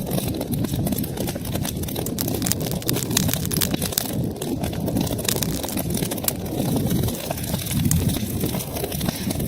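Wood fire burning in a fireplace: a steady low flame noise with many short, sharp crackles and pops from the burning wood.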